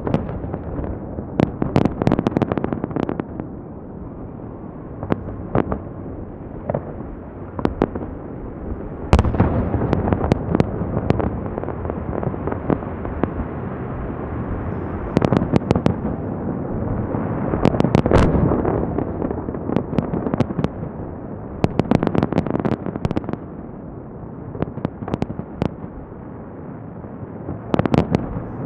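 Fireworks salute: volleys of sharp bangs and booms coming in clusters every few seconds, with a continuous rumble of echoes between the volleys.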